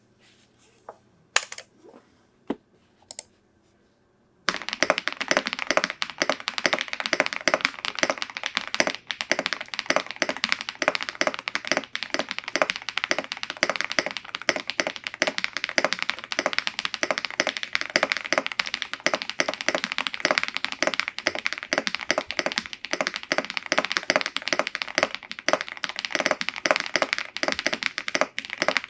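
Tiger80 Lite mechanical keyboard with lubed and filmed KNCKeys Green Jackets switches, a PC plate and a plastic case, being typed on. A few separate key presses come first, then about four and a half seconds in, fast continuous typing begins and runs on.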